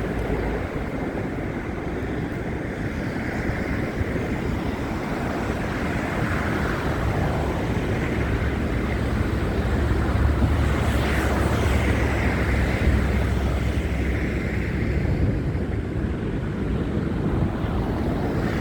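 Wind buffeting the phone's microphone, a steady low rumble that grows stronger about halfway through and eases off near the end.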